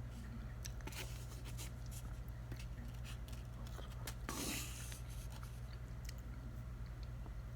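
Eating noises close to the microphone: scattered small clicks and scrapes of a utensil on a plate, with one louder swishing noise about four and a half seconds in, over a steady low hum.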